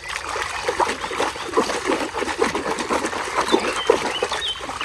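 Water splashing and sloshing in quick irregular bursts as a small muddy plastic toy is scrubbed by hand in clean water.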